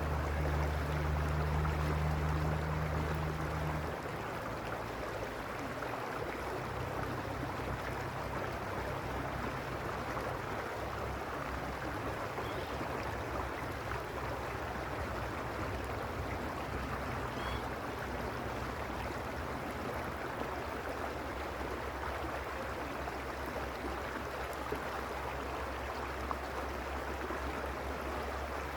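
Mountain stream rushing steadily. A low rumble underneath is strongest for the first four seconds, then drops away.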